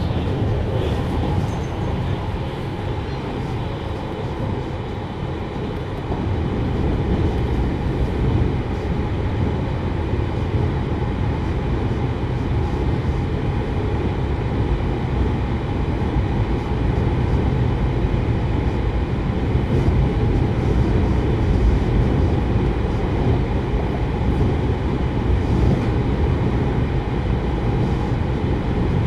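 JR Hokkaido 733 series electric multiple unit running on the line, heard from inside the car as a steady rumble of wheels on rail. It gets somewhat louder from about six seconds in.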